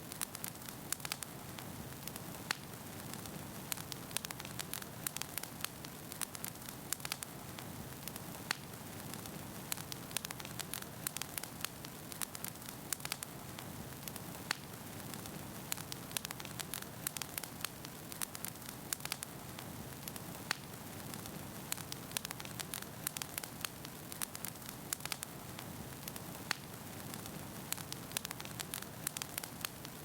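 Wood fire burning in a fireplace, with a steady hiss and frequent sharp, irregular crackles and pops from the burning logs.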